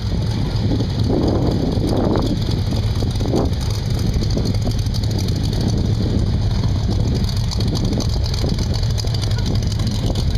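Engine of a classic car or truck idling with a steady, deep rumble, a sound called "a monster".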